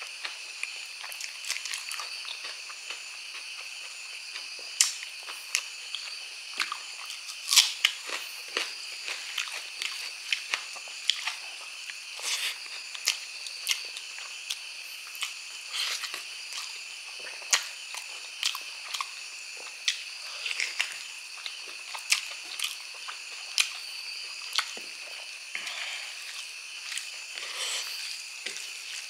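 Close-up eating of braised pork trotters with rice by hand: wet chewing and lip smacking, with frequent short sharp smacks and clicks as the sticky skin and meat are bitten and torn. A steady high-pitched drone runs underneath.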